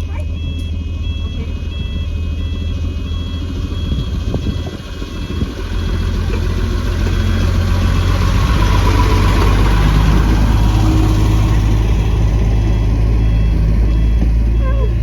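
Level crossing warning alarm beeping in a steady repeating rhythm while a narrow-gauge light-railway train rumbles over the crossing, the rumble building up from about six seconds in.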